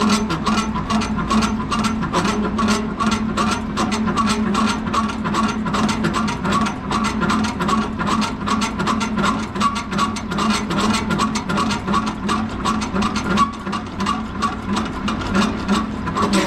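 Semi-trailer landing gear being hand-cranked down: the crank and gearbox clicking in a steady rhythm, several clicks a second, over a grinding gear hum.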